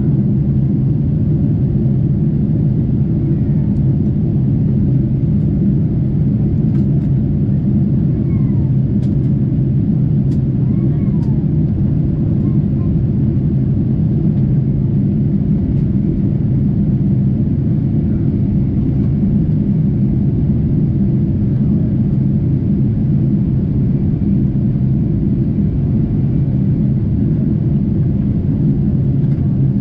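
Steady cabin noise inside a Boeing 747-8 in flight: an even, low rumble of airflow and engine noise.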